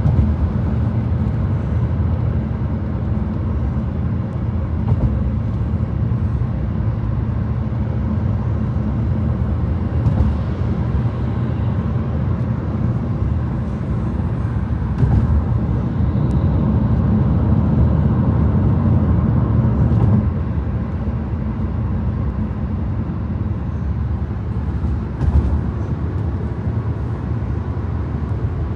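Steady low rumble of a moving car's engine and tyres on the road, with a few brief knocks.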